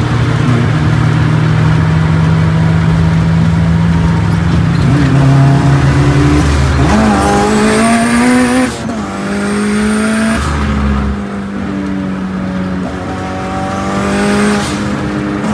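Car engine under hard acceleration, heard from inside the cabin: the pitch holds low, then climbs steeply, drops suddenly at a gear change a little past halfway, and climbs again near the end, with a thin high whine over the climbs.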